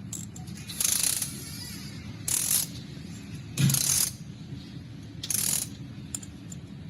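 Ratchet wrench turning the engine's crankshaft by hand to bring it to top dead centre: four short ratcheting strokes about a second and a half apart.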